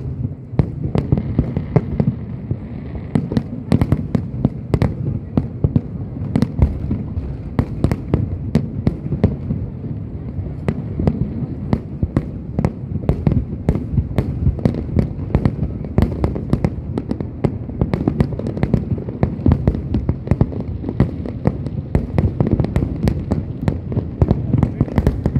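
Fireworks display in a continuous rapid barrage: many sharp bangs a second from bursting shells over a steady low rumble, with no let-up.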